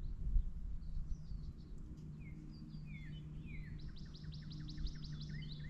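Small songbird calling: scattered short chirps, then a fast even run of repeated notes about four seconds in. A steady low hum runs underneath.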